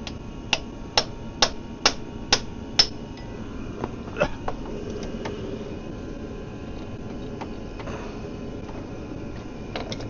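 Hammer blows: six sharp strikes at about two a second, then a few more scattered strikes later on.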